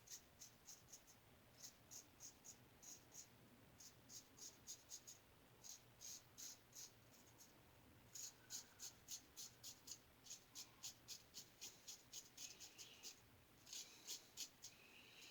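Ever Ready single-edge safety razor scraping through one-day stubble in quick short strokes, about three to four a second, in runs with brief pauses. Faint.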